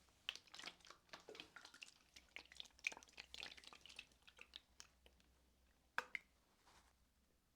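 Quiet, wet clicking and squishing of massage oil worked between hands and skin, a dense run of small crackles for the first few seconds, then a single sharper click about six seconds in.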